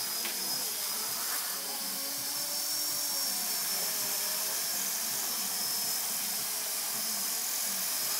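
Model helicopter's motor and rotors running steadily in flight: an even, high whine over a rushing hiss, its pitch wavering slightly.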